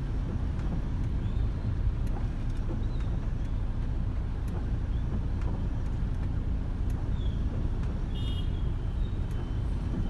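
Steady low rumble of a car driving through city traffic, with a brief high-pitched tone about eight seconds in.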